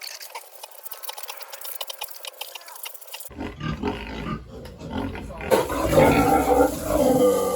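Pigs grunting and squealing in a pen. The first few seconds hold only thin scratchy clicking and rustling; about three seconds in the sound changes abruptly, and from about halfway it grows louder with several overlapping pitched squeals.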